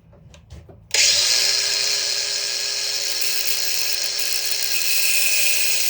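A high-speed electric power tool motor switching on abruptly about a second in and running at a steady high whine.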